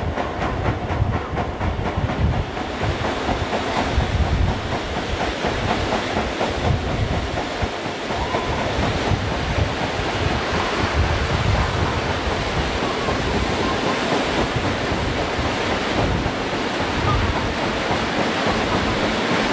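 Passenger train running at speed, heard from an open carriage window: a steady rumble of wheels on the rails, with uneven wind gusts buffeting the microphone.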